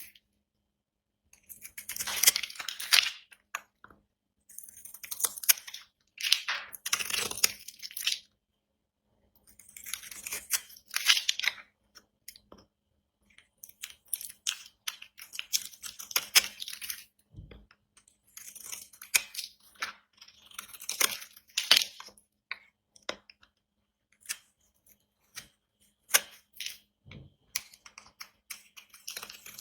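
Dry, brittle bar soap being cut, crunching and crackling crisply in repeated strokes of a second or two with short pauses between.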